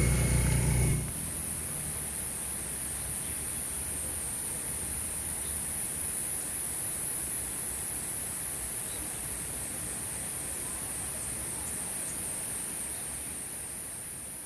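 A motor vehicle's engine running close by stops suddenly about a second in, leaving a steady high-pitched insect chorus over the soft hiss of drizzling rain, which fades out near the end.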